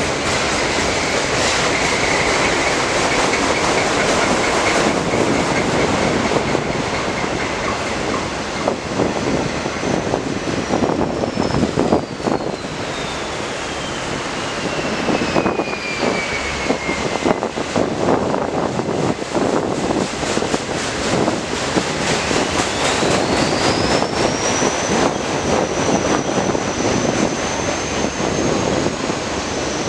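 Train running past on the rails, a steady rumble with rapid clicking of the wheels. Over it a high-pitched wheel squeal slides down in pitch from about ten seconds in, then rises again about twenty-two seconds in and holds high.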